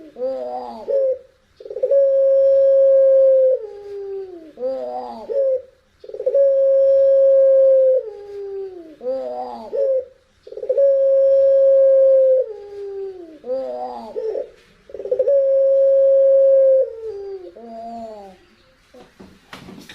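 Puter pelung dove cooing: each call is a long, level, howl-like note that drops in pitch at its end, followed by a quick run of short stuttering notes. The call comes four times, about every four and a half seconds.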